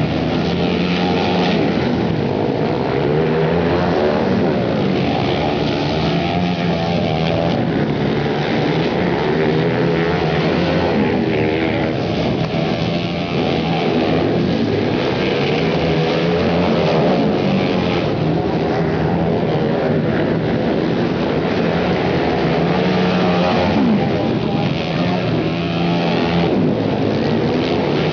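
Several flat track racing motorcycles running together on a dirt oval, their engines revving up and down without a break as riders go through the turns and down the straights.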